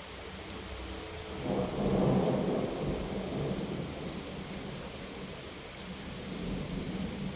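Thunder cracks about a second and a half in and rumbles away over the next few seconds, over steady rain.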